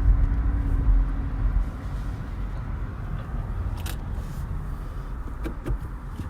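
Steady low rumble of a motor vehicle, with a faint steady hum for the first second or so and a few light clicks later on.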